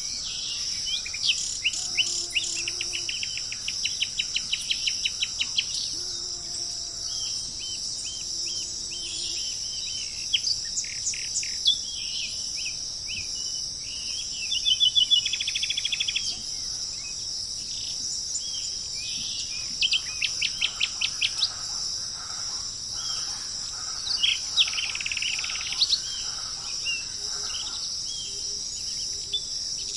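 Several wild birds chirping and trilling in quick runs of short notes, over a steady high-pitched insect drone.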